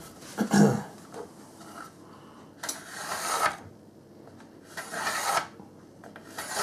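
Two rasping scrapes along a wooden plank, each about a second long, after a short low sound about half a second in.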